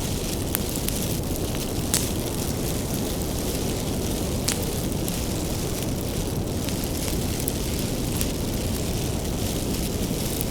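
Bonfire of firewood burning: a steady low roar of flame with scattered sharp crackles and pops from the wood, the loudest about two seconds in and another near the middle.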